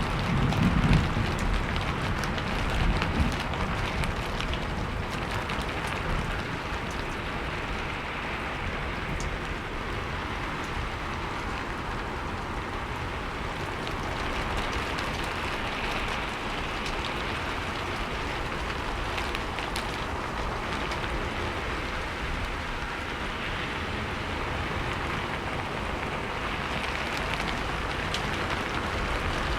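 Steady rain falling and pattering on surfaces, with scattered drop ticks. A low rumble dies away in the first few seconds.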